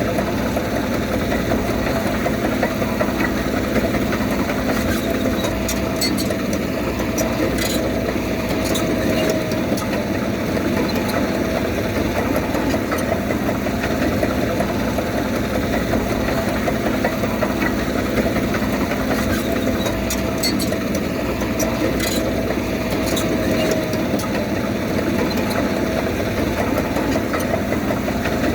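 Diesel engine of a Komatsu D31P crawler bulldozer running steadily. A faint whine and a few light clanks come twice, about a quarter-minute apart.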